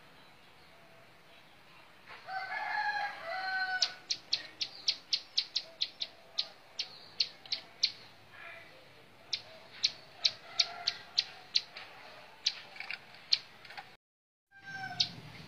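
A rooster crows once for about two seconds, then a ciblek sawah (prinia) gives a long run of sharp, high chip notes, about four or five a second. The sound cuts out briefly near the end.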